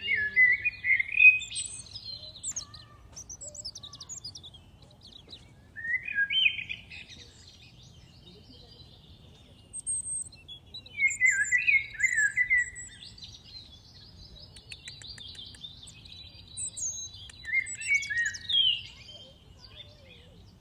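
Songbirds singing: a loud warbling phrase repeats every five or six seconds, with fainter, higher chirps in between.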